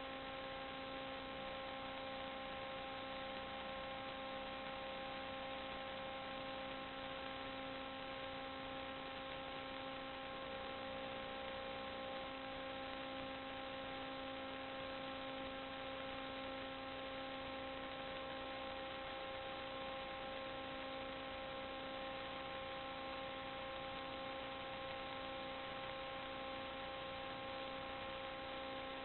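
Steady electrical hum with a faint whine in its overtones, over a constant hiss, with no change or event throughout.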